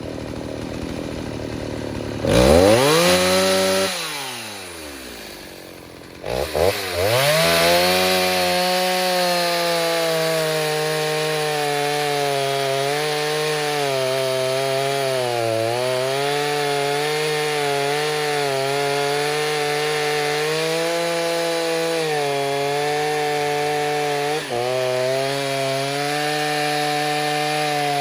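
Stihl 029 two-stroke chainsaw, rebuilt with a 45 mm piston, revved up about two seconds in and then dropping back toward idle. It revs up again a few seconds later and holds at full throttle cutting wood, its pitch sagging and recovering as the chain loads in the cut.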